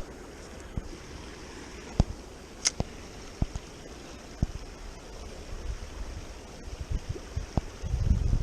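Steady rush of water at a spillway, with a few sharp clicks scattered through it, and wind buffeting the microphone near the end.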